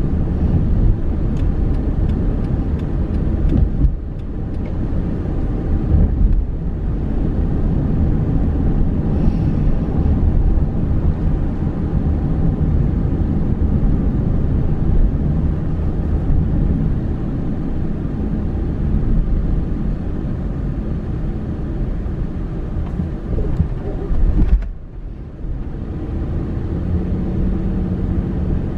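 A car driving, with a steady low rumble of engine and tyres on the road that dips briefly about 25 seconds in.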